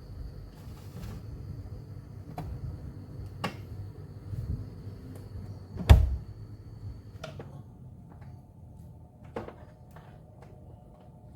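Knocks and clicks of hands working on refrigerator parts and panels, with one loud knock about six seconds in.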